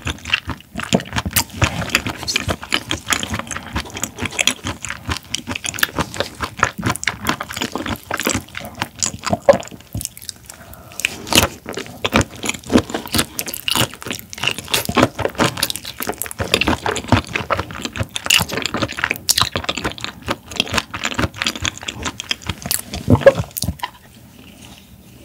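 Close-miked chewing of raw shrimp: a dense, uneven run of mouth clicks and smacks.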